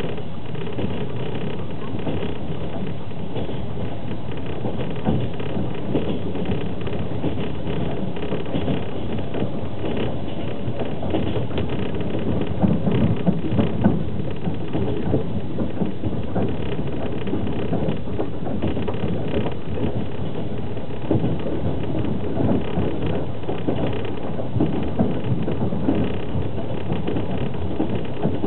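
Running noise inside a Russian passenger sleeper car at speed: a steady rumble of the wheels on the track, with a few sharper knocks about halfway through.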